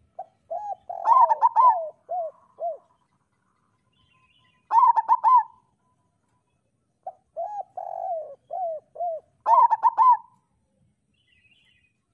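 Local zebra dove (perkutut) singing its staccato cooing song: quick runs of short, clipped coos, lower notes leading into a higher burst, repeated in phrases every few seconds.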